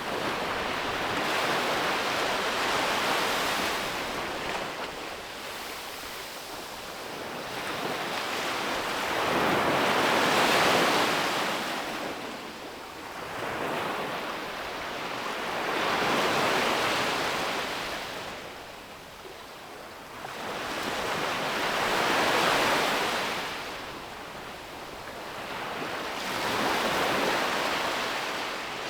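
Sea waves breaking on a beach, each wash of surf swelling and fading about every five to six seconds, with some wind on the microphone.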